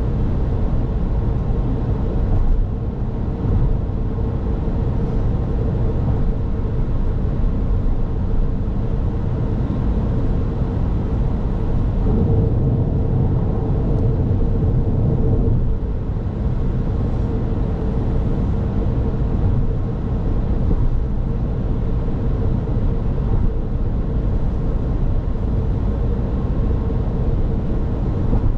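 Car driving on the road: a steady low rumble of tyre and engine noise with a faint, even hum.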